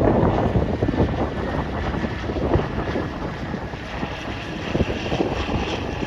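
Wind buffeting the microphone, a loud, rough rumble throughout.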